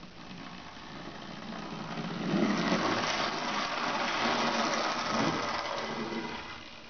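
Small electric motor and wheels of a Minitrix N gauge model steam locomotive whirring along the track. It grows louder, is loudest for the middle few seconds, then fades away as the locomotive passes.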